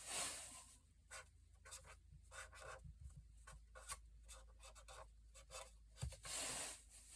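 Faint scratching and rubbing with scattered light clicks, the sound of small scrap pieces being handled and moved around, with a slightly louder rustle at the start and again about six seconds in.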